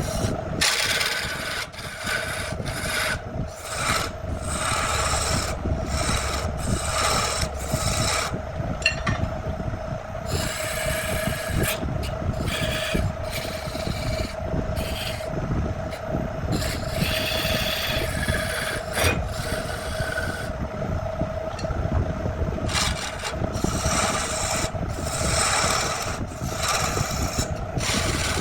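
Wood being worked with repeated, irregular rasping and scraping strokes, over a steady hum.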